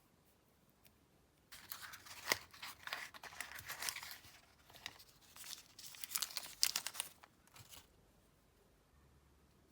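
Crackly tearing and crinkling of material being handled, in a busy run of bursts that starts about a second and a half in and stops near the end.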